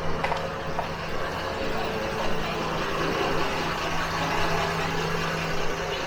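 A motor vehicle engine idling with a steady low hum over street traffic noise; the hum stops near the end.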